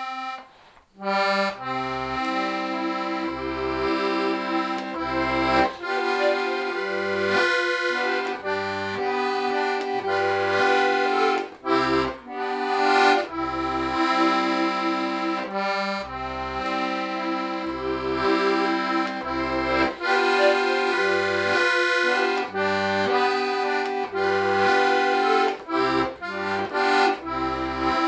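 Club IIB diatonic button accordion playing a folk tune solo. A held chord breaks off at the start, and after a short pause about a second in the playing resumes with a melody over alternating bass notes and chords.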